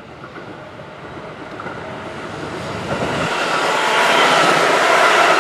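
Keihan 8030 series (former 3000 series) electric train approaching through the station, its running noise growing steadily louder.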